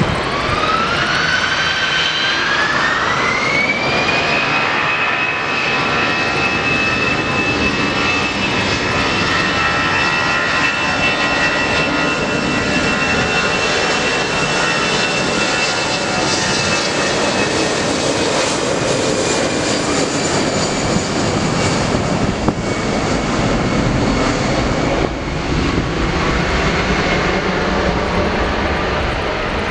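Jet aircraft engines spooling up to high thrust: a whine rises over the first few seconds, then holds steady for about twenty seconds over loud engine noise.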